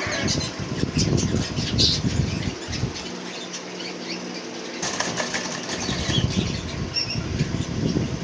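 Small caged parrots flapping their wings in fluttering bursts, with a few short chirps.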